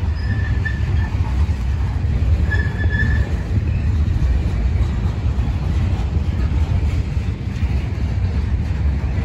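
Freight train's covered hopper cars rolling past, a steady low rumble of steel wheels on rail, with two brief high wheel squeals, one just after the start and one about two and a half seconds in.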